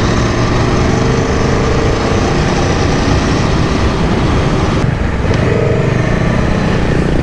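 Aprilia Tuono V4 Factory motorcycle's V4 engine running under way, with road and wind noise. Its pitch shifts a couple of times as the revs change.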